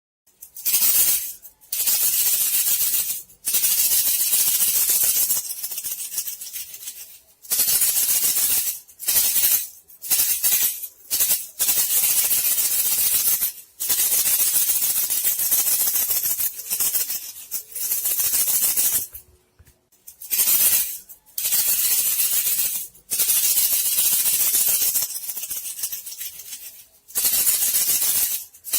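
A rapid shaken rattle in hissing bursts of one to several seconds with short breaks between them: a call sound used to lure bandicoot rats.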